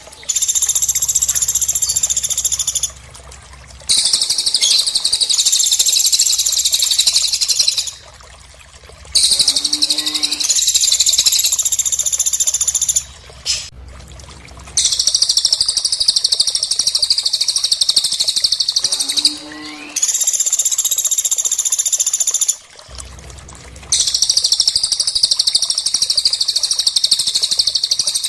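Recorded song of cililin and pelatuk birds played for song training: runs of rapid, high-pitched trilling chatter lasting three to four seconds each, broken by short pauses and repeating like a loop. Twice, a brief lower gliding call is heard.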